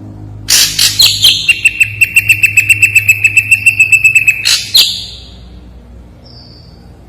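Ashy drongo singing one loud phrase of rapid repeated notes, about eight a second, over a steady high tone. The phrase lasts about four seconds and stops abruptly, followed by a faint short note.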